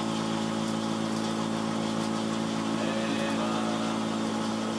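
Portable cotton candy machine running: its 12-volt battery-powered motor spins the sugar head with a steady hum.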